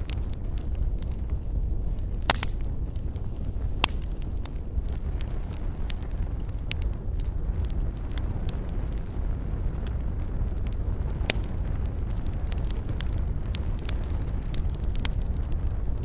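Wood fire burning in a fireplace: a steady low rumble of flames with frequent small crackles and a few sharper pops, the loudest about two, four and eleven seconds in.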